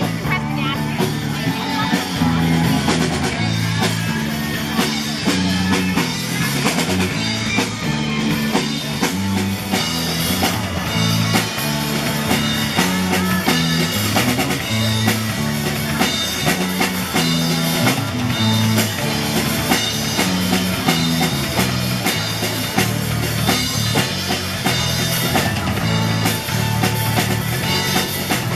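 Live rock band music: drum kit and electric guitar playing an instrumental passage with a steady beat and a moving bass line.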